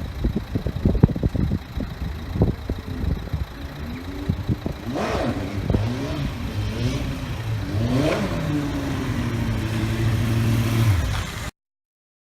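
Stunt motorcycle engine revving in a few sharp blips, each rising and falling in pitch, then running at a steadier low rev before the sound cuts off abruptly near the end.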